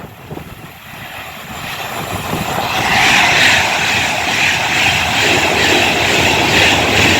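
A train passing through at speed: wheel and rail noise that builds over the first few seconds and then stays loud and steady.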